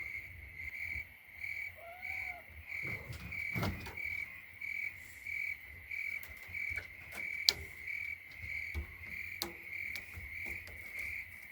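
Crickets chirping steadily, about two chirps a second. There is a short arched call about two seconds in, and a few sharp clicks and knocks.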